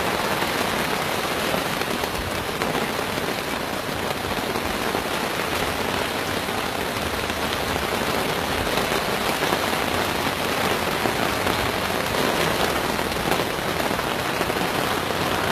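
Heavy rain pouring down steadily in a storm downpour.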